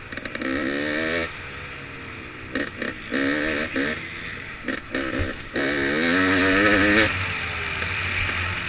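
KTM 300XC two-stroke dirt bike engine revving in repeated throttle bursts, the pitch climbing and dropping with each one, with short drops to a lower drone between them. The longest and loudest burst comes a little past halfway.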